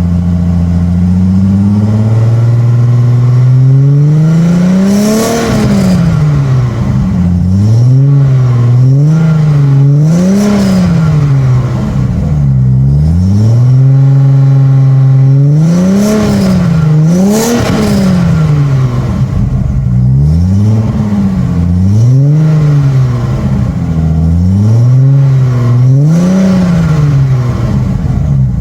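Audi 80 Cabriolet's 2.6-litre V6 through an Ulter aftermarket sport exhaust, idling and then revved repeatedly: one slow rise and fall about five seconds in, followed by a series of quick throttle blips that drop back toward idle between each, with a short steady idle in the middle and again at the end.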